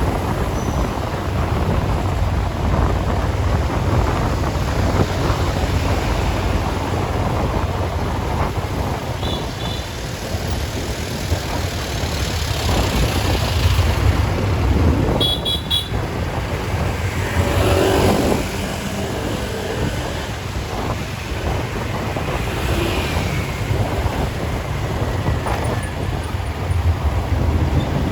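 Street traffic noise: a steady rumble of passing vehicle engines, with short horn toots about ten and fifteen seconds in.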